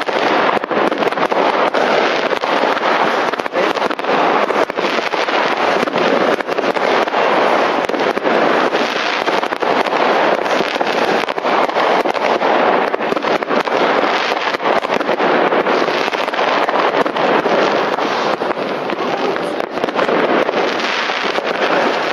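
Many fireworks going off at once: rockets, aerial bursts and firecrackers make a continuous din of bangs and crackling, with cracks following one another without a break.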